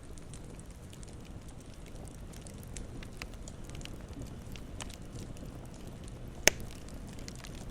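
Campfire crackling: a steady low rush of burning with scattered small pops and one sharp, much louder pop about six and a half seconds in.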